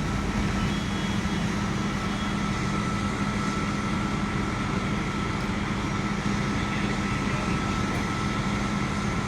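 Fire truck engines running steadily while pumping water at a building fire: a continuous drone with a steady low hum and a thin high whine over it.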